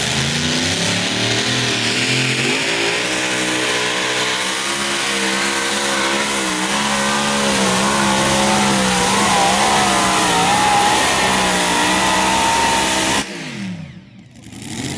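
Pulling tractor's engine running loud at high revs, its pitch wavering. Near the end it cuts off sharply, the pitch falling away as the engine winds down.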